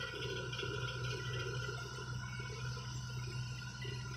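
Steady low engine hum with an uneven, rumbling chatter over it.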